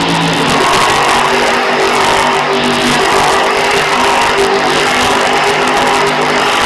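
Monster truck engine running loud and steady at high revs while the truck spins donuts.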